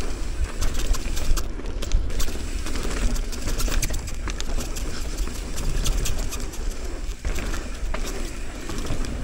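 Mountain bike descending a rough bike-park trail, heard from a helmet-mounted action camera: wind buffeting the microphone, tyre noise on dirt, and an irregular clatter of knocks and rattles as the bike hits bumps.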